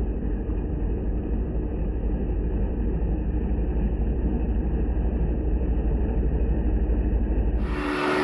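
Heng Long Leopard 2A6 RC tank running, its sound unit giving a steady, low simulated tank-engine rumble with a fast even pulse. Near the end the sound cuts suddenly to a louder, fuller sound with steady tones.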